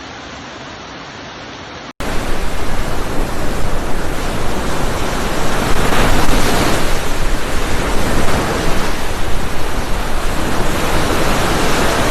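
Floodwater rushing, a loud steady wash of noise that swells and dips, starting abruptly about two seconds in after a quieter steady hiss.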